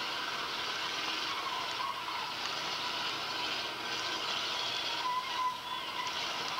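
Steady, noisy din of a demolition derby heat: the eight-cylinder derby cars' engines running as they push and ram one another, with no single loud crash standing out.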